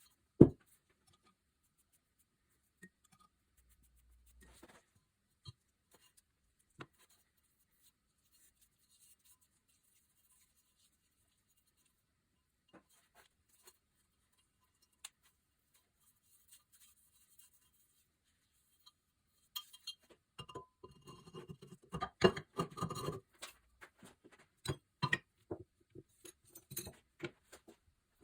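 Scattered sharp metallic clicks and taps, then a busy run of clinking and knocking about twenty seconds in, as diesel engine parts such as the piston rings and cylinder liner are handled and fitted.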